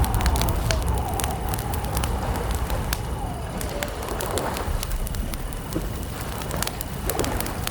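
Wood campfire crackling, with frequent sharp pops and snaps over a low steady rumble. A faint low wavering call, like a bird's coo, glides along behind it.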